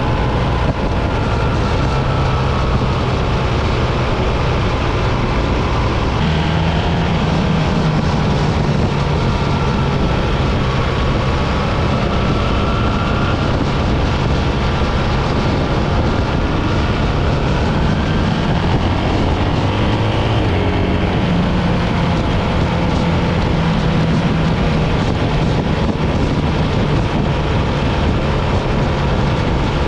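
Motorcycle engine running steadily on the move under loud wind and road noise. The engine's hum shifts in pitch twice.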